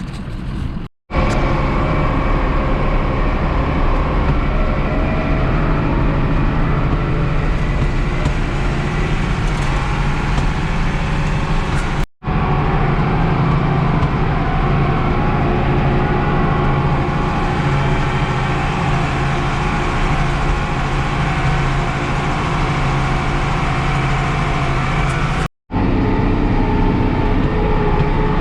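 International Harvester 1586 tractor's six-cylinder diesel engine running steadily while driving, cut off briefly three times: about a second in, near the middle and near the end.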